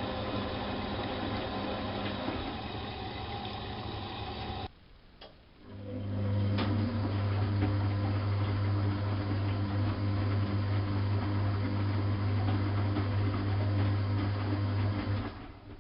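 Bosch WFK 2431 washing machine's drum motor running, cutting out suddenly about five seconds in with a single click, then starting again with a steady low hum and running for about ten seconds before stopping near the end. The stop-and-restart is the drum turning in bursts during the wash.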